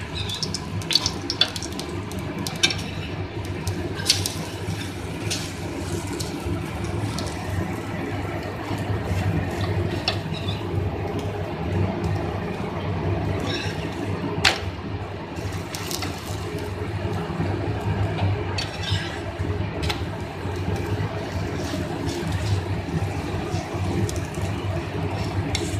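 Semolina-and-flour cheela frying in oil on a flat pan: a steady sizzle with scattered crackles and pops.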